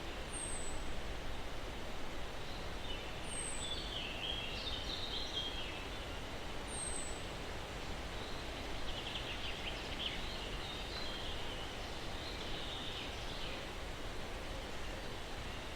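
Steady breeze rustling through pine trees, with songbirds calling: three thin, high, falling notes about three seconds apart early on, and stretches of twittering chatter through the middle.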